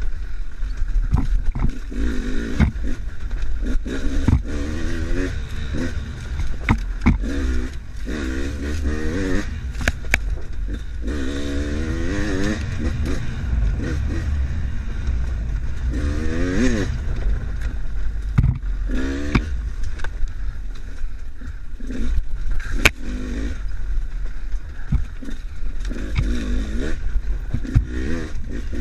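Enduro motorcycle engine revving up and down again and again as the throttle is worked, under a heavy low rumble. Sharp knocks and clatter come in throughout.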